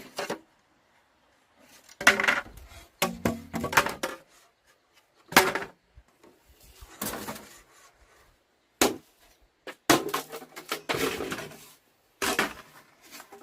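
Irregular knocks and clatter of hard objects, wood among them, being handled and set down, in separate bursts a second or two apart.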